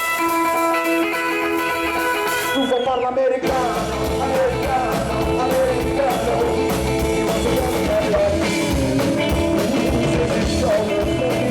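Rock-and-roll band playing live. A held chord rings for the first few seconds, then the full band with drums comes back in about three and a half seconds in and a singer's voice joins.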